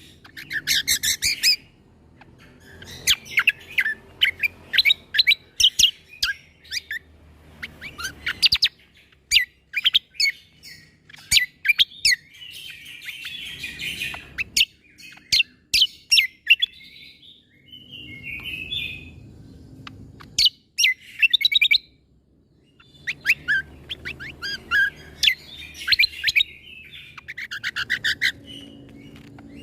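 Cucak kombo (kecial kombok) songbird singing in bursts of rapid, sharp, high notes, the clipped 'shooting' phrases that keepers prize, with short chattering runs between them and brief pauses between bursts.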